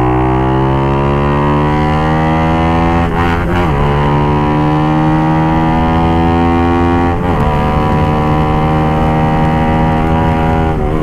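Suzuki GSX-R150's single-cylinder engine, breathing through an aftermarket exhaust, pulling hard under acceleration. Its pitch climbs steadily and drops sharply at each upshift: twice, a few seconds apart, and once more near the end.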